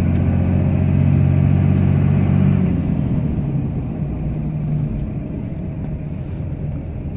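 Cummins turbo-diesel inline-six in a Ram pickup working hard while plowing snow, heard from inside the cab. It eases off about three seconds in and runs on more quietly.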